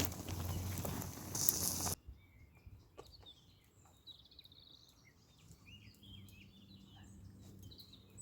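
Small birds chirping and trilling in quick, short phrases. Before them, about two seconds of loud crackling noise stops abruptly.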